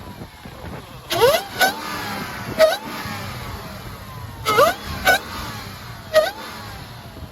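Hellcat Redeye's supercharged 6.2-litre Hemi V8 revved in six sharp throttle blips, each one rising quickly in pitch and dropping straight back, with a falling whine between blips. Loud enough to hurt the ears.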